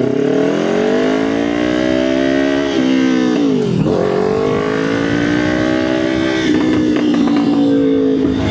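Kawasaki Ninja 500 parallel-twin engine and exhaust pulling through the gears: the revs climb, drop at gear changes about three to four seconds in and again about six and a half seconds in, then hold steady.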